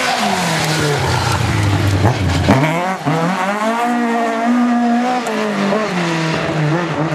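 Rally car engine running hard: the pitch falls as it comes off the throttle, then climbs sharply about two and a half seconds in and holds high before easing off again near the end.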